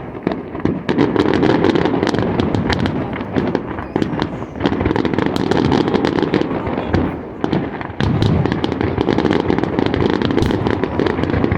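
A fireworks finale: a dense barrage of shells bursting and crackling in rapid succession. It eases briefly about seven seconds in, then resumes at full strength.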